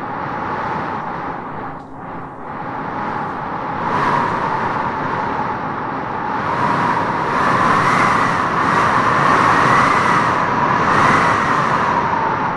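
Wind blowing in gusts, with a howling whistle that rises and falls in pitch. It dips briefly about two seconds in and swells loudest in the second half.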